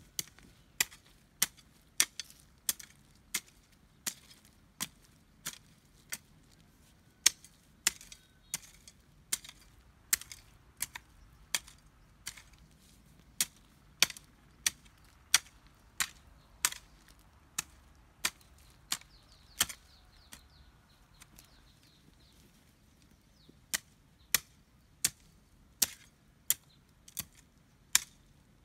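A hand tool striking again and again in steady chopping strokes, about one and a half a second, pausing briefly a little after two-thirds of the way through before the strokes resume.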